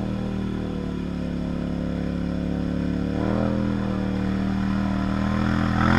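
2014 Polaris Sportsman XP 850 ATV's twin-cylinder engine running steadily through an aftermarket carbon fiber M4 muffler, the revs rising a little about three seconds in and then holding.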